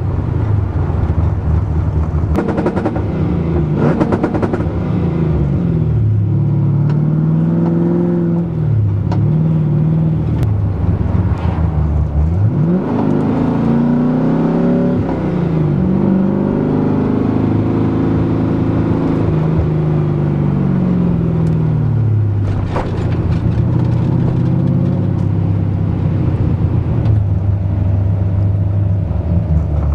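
Chevrolet LS6 V8 in a Nissan 240SX revving up and down over and over, now and then held at a steady pitch against the MSD two-step launch limiter, with a few sharp pops.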